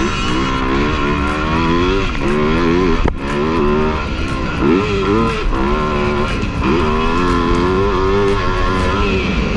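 Motocross bike engine revving on the track, its pitch rising and falling again and again, with a sharp knock about three seconds in.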